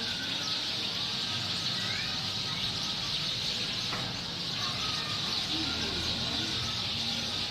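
A large flock of birds calling all at once: a dense, steady chatter, with single chirps and short rising calls standing out here and there.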